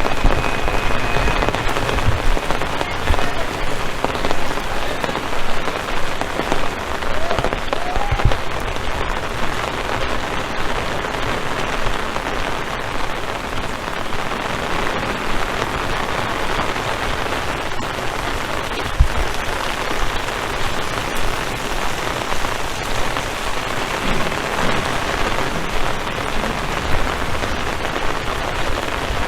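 Steady rain falling, a continuous even hiss, with a few brief low thumps.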